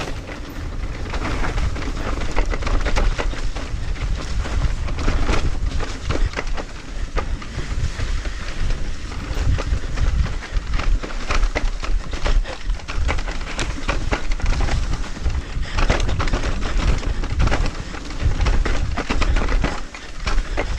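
Mountain bike riding over a rough forest trail: tyres rolling and crunching over the ground, with frequent clicks and rattles and a constant low rumble.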